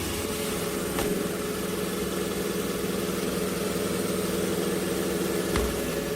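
iRobot Roomba j7+ robot vacuum running, a steady motor and brush hum with two short clicks, one about a second in and one near the end.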